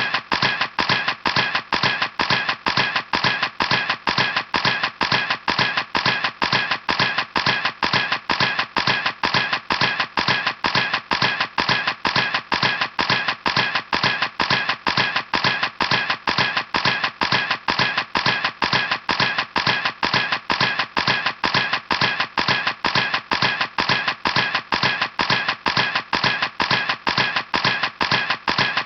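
Camera shutter clicking over and over at an even rate, about three clicks a second, each click identical and short.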